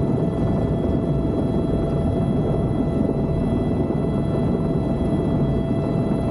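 Helicopter running in flight, heard from inside the cabin: a steady low drone with a constant high whine over it.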